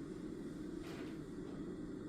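Steady low room hum with one brief, soft rustle about a second in.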